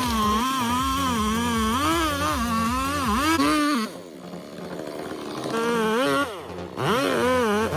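Chainsaw engine running at high revs, its pitch wavering as it cuts. It drops back about four seconds in, picks up again, dips once more, then revs up sharply near the end.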